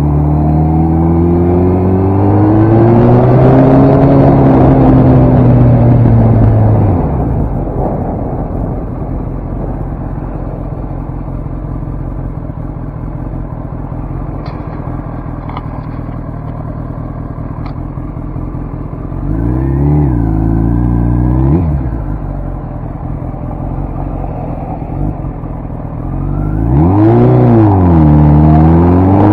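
Kawasaki ZX-10 sportbike's inline-four engine accelerating through the first few seconds, then backing off to a lower steady rumble. About two-thirds of the way in it blips up and down briefly, and near the end the revs rise and fall once and start climbing again.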